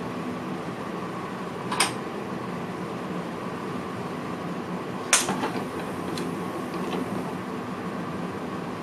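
Steady ventilation hum inside a VIRM train's driver's cab. Two sharp clicks sound about two and five seconds in, the second followed by a short patter of smaller clicks.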